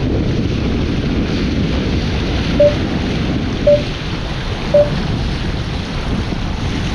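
Strong wind buffeting the microphone over surf washing on a rocky shore. Three short beeps about a second apart come midway.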